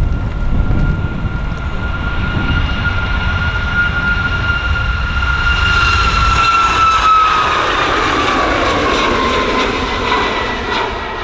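Boeing 737 jet engines at takeoff power as the airliner climbs out past, a deep rumble under a high whine that holds steady, then slides down in pitch in the second half as the aircraft goes by.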